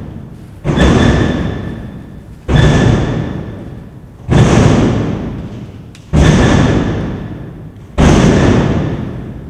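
Five loud, heavy thuds, one about every two seconds in a steady rhythm, each struck suddenly and dying away slowly with a faint ringing tone in the echo.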